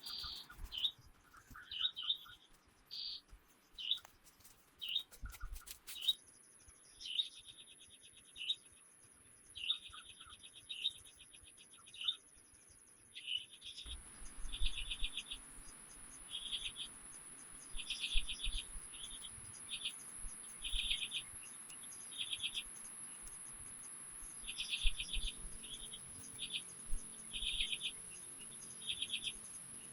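Short, rapidly pulsed chirps from forest wildlife, repeating about once a second over a thin, steady, high-pitched insect whine. About halfway through, a soft, steady hiss joins in.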